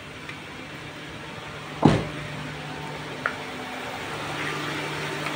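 Mitsubishi Xpander engine idling steadily, slowly growing louder, with the AC switched on but the compressor getting no power from its wire, so the AC does not cool. A car door thuds shut about two seconds in, followed by a small click a little over a second later.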